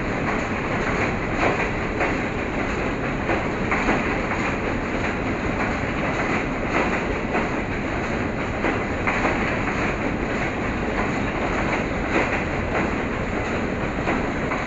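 Passenger train running along the track: a steady rumble with wheels clacking over rail joints every two to three seconds.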